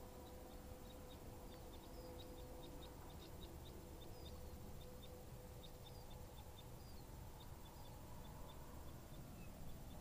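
Faint small birds calling: many short, high chips and little down-slurred chirps, several a second, over a steady faint low hum.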